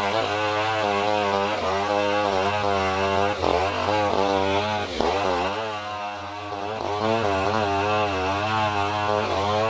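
Stihl 070 two-stroke chainsaw running hard while ripping a durian log lengthwise. The engine note wavers under the load, sagging twice near the middle and picking back up.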